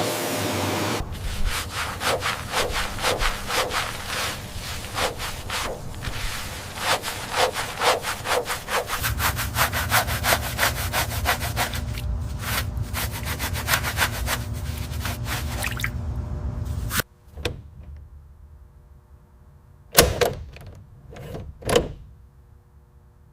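Rapid back-and-forth rubbing strokes on a surface, about two or three a second, typical of hand sanding. They stop suddenly about two-thirds of the way through, and two loud knocks follow near the end.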